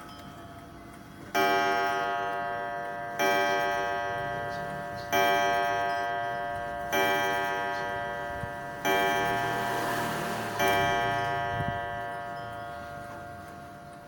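Clock striking the hour: six slow, ringing chime strikes about two seconds apart, each fading away before the next, over a steady ticking.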